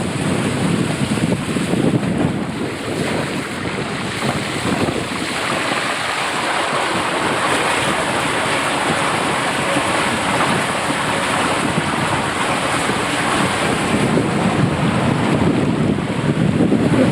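Water rushing as a double raft slides down a waterslide, heard from on the raft with wind noise on the microphone. From about five seconds in it turns to a higher hiss, and it drops back to a lower rush near the end.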